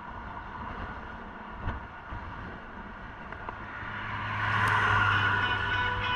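A motor vehicle passing close by: its noise swells from about halfway through, peaks near the end, and carries a low hum.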